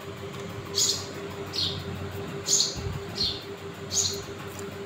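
A bird chirping: short high chirps about every 0.8 s, alternating a higher and a lower note, over a steady low hum.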